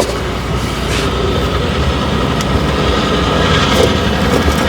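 A steady motor or engine running, with a strong low hum and no change in pitch or level.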